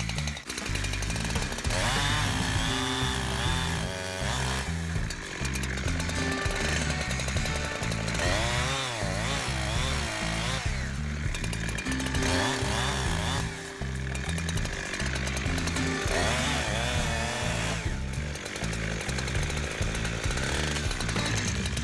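Chainsaw running and cutting, its pitch rising and falling again and again as it bites, under background music with a steady bass line.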